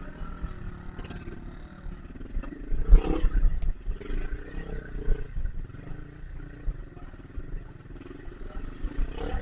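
Trail motorcycle engine revving unevenly in mud and water, muffled and rumbling, with its loudest surge about three seconds in.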